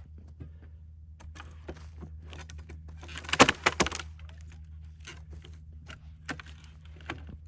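Cedar rail being levered apart with a pry bar: scattered cracks and snaps of wood fibre tearing, with a quick run of loud cracking about three and a half seconds in as the split opens.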